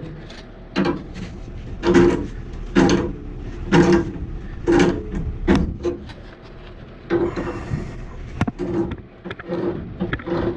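Threaded black gas pipe fitting being cranked tight with a pipe wrench on doped threads: repeated creaking, grinding strokes about once a second as the threads turn.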